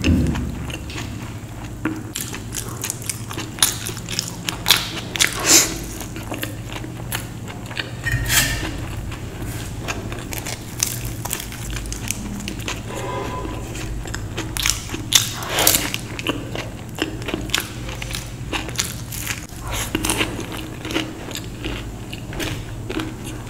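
Close-up mouth sounds of a person biting and chewing crisp food, with frequent crackly crunches and a few louder bites, over a steady low hum.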